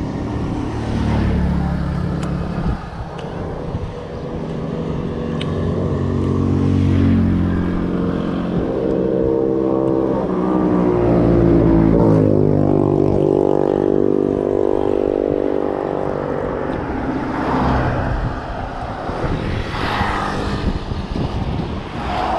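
Motor vehicle engine pulling away on the road, its pitch climbing twice with a drop between, as in a gear change, over steady road and wind noise.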